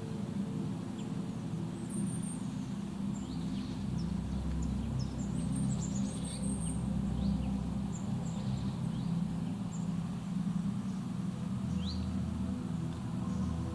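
Songbirds chirping in a forest: short high calls and quick rising notes scattered throughout, over a low steady drone. More sustained tones join the drone near the end.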